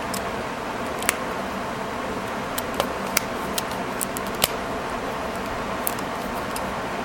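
About ten scattered sharp clicks from a staple remover being handled, most of them bunched in the middle, over a steady fan-like hum.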